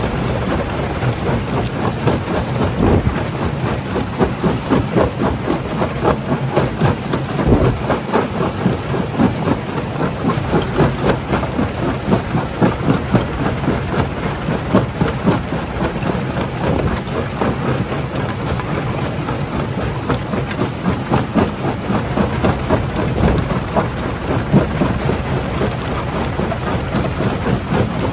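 Stone crusher running under load: a steady machine drone beneath a continuous clatter and knocking of rock being broken.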